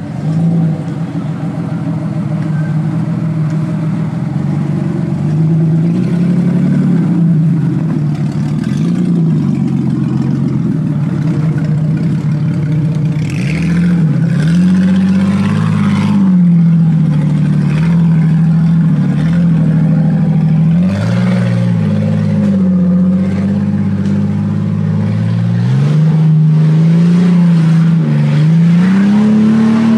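An off-road 4x4's engine revving up and down again and again under load, its pitch rising and falling every second or two. A noisy rush joins it about halfway through.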